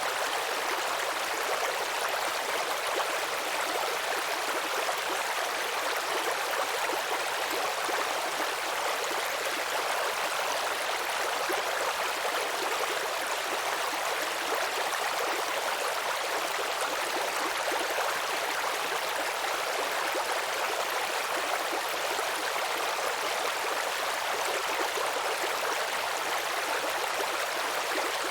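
Babbling brook: water running and trickling over stones in a steady, even rush without pauses.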